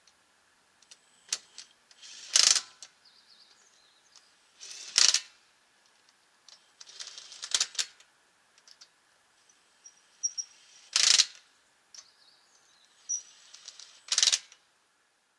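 Makita 18V cordless impact wrench working the lug nuts of one wheel in turn: five short runs, each a brief spin followed by a burst of hammering, with small clicks and handling noises between them.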